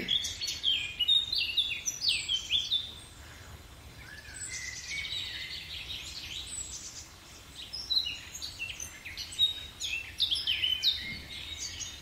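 Several songbirds chirping and singing in quick, short, high notes, busiest in the first three seconds and again from about eight seconds in, with a quieter stretch between.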